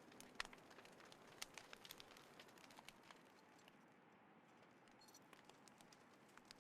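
Small wood fire crackling in a folding fire stand: faint, irregular pops and snaps over a soft hiss, busiest in the first three seconds and sparser later.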